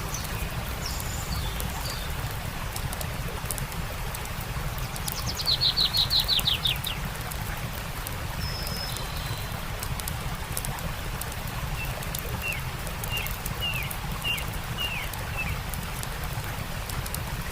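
Wild birds singing over the steady rush of a stream and the faint crackle of a campfire. About five seconds in, a fast trill of about ten notes is the loudest sound. Short whistles follow, then a run of quick down-slurred chirps near the end.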